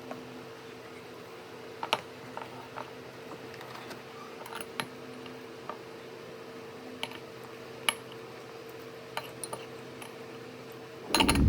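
Scattered light clicks and taps, one or two at a time, over a steady low hum. A loud, dense rushing noise starts near the end.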